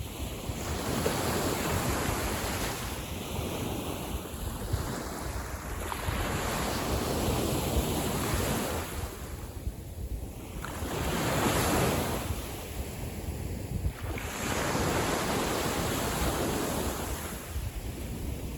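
Small waves of a calm sea breaking and washing on the shore, swelling and fading every few seconds, with a steady low rumble of wind on the microphone.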